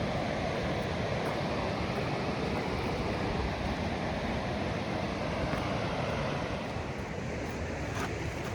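The Colorado River rushing steadily, a continuous even roar of moving water, with a brief click near the end.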